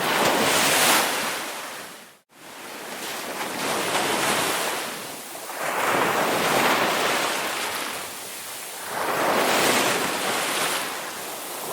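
Ocean surf: waves breaking and washing in, swelling and ebbing about every three seconds, with a brief gap about two seconds in.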